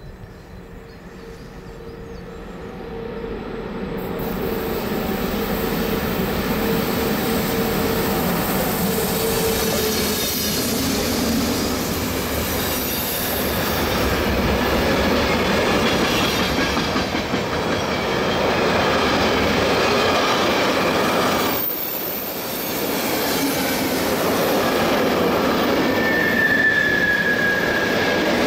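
A train running past on the rails: the rolling rumble of the wheels builds over the first few seconds, then holds steady, and a thin wheel squeal comes in near the end.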